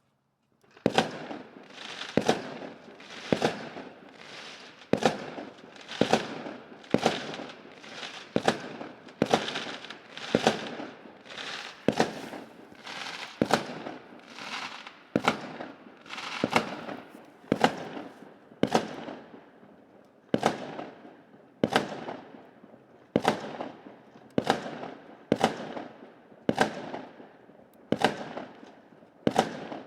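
Fireworks going off in steady succession, about one sharp bang a second starting about a second in, each bang trailing off over most of a second.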